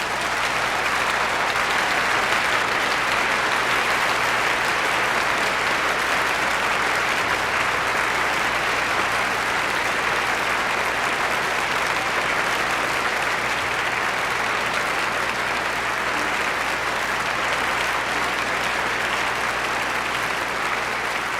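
Concert-hall audience applauding steadily at the close of a symphony performance.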